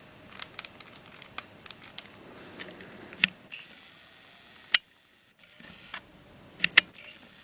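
A plastic 4x4x6 twisty-puzzle cuboid being handled: small scattered plastic clicks and light rattling, with a few sharper clicks.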